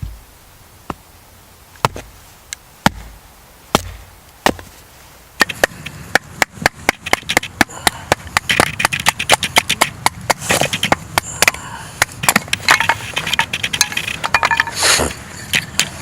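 Firewood being split and broken: a few separate sharp knocks with a dull thud, then from about five seconds in a dense, rapid run of cracking and snapping.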